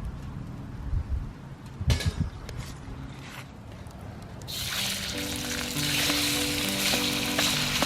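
A few light knocks, then food starts sizzling loudly in a hot pan about halfway through and keeps on steadily, with soft background music under it.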